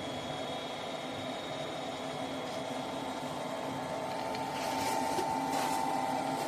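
Gas furnace's draft inducer (exhaust) fan running steadily with a hum, while the igniter heats up before the gas valve opens. About four and a half seconds in, the sound gets a little louder, with brief hissing.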